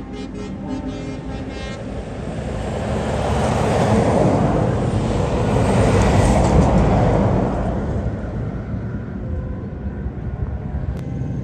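A truck driving past, its engine and tyre noise building to a peak about halfway through and then fading away.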